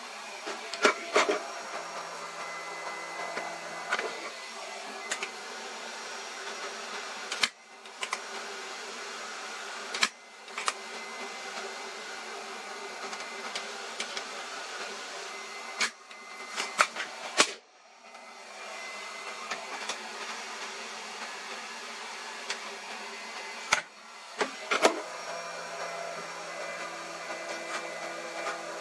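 A steady whirring noise, like a small blower or fan, runs throughout. Sharp clicks and knocks come about a second in, near four seconds, near seven and a half, at ten, three times between sixteen and eighteen seconds, and twice near twenty-four seconds.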